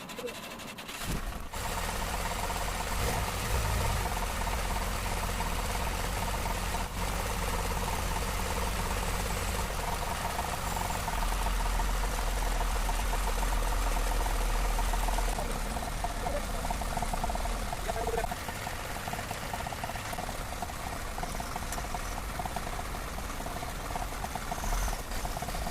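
Tata's Cummins diesel engine running steadily with a deep low rumble and a broad rattle; it eases slightly about fifteen seconds in.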